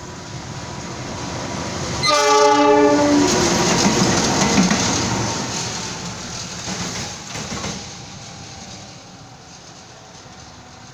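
Indonesian diesel locomotive sounds one horn blast about a second long, about two seconds in. It then passes with a loud rumble and wheel clatter, which fades as the train draws away.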